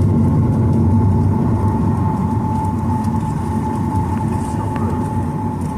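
Boeing 737-900ER jet engines at high takeoff thrust, heard from inside the cabin. A loud, steady low rumble carries a steady whine that stands out from about two seconds in, and the overall level eases slightly.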